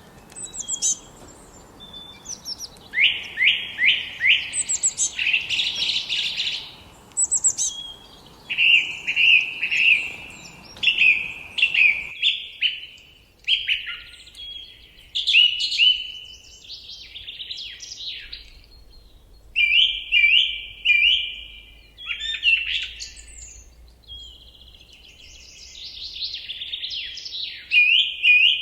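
Several songbirds singing: repeated phrases of quick, high chirping and trilled notes, some in fast runs of falling notes. A faint background hiss under the song stops abruptly about twelve seconds in.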